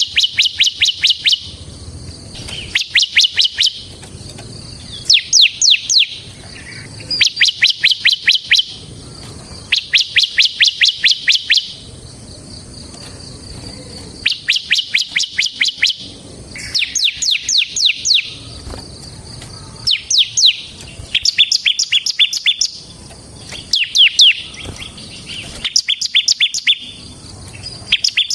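A bar-winged prinia (ciblek) sings vigorously. It gives rapid, rattling bursts of high, sharp downward-sliding notes, each burst lasting a second or two and repeated every couple of seconds.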